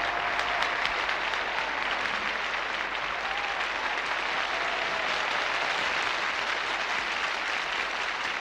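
Concert audience applauding steadily in a large hall, with a few faint voices calling out over the clapping.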